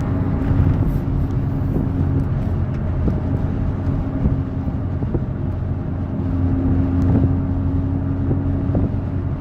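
Car engine and road noise heard from inside a moving car's cabin, a steady low hum.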